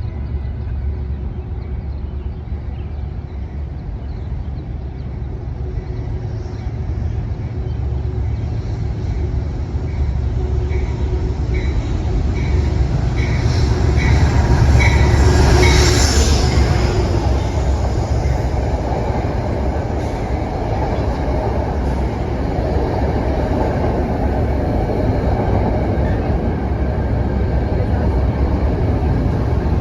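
Metro-North commuter train rolling through the station: a low rumble of wheels on rail that builds to its loudest about halfway through, with a run of wheel clicks over rail joints just before the peak, then a steady rumble as the cars go by.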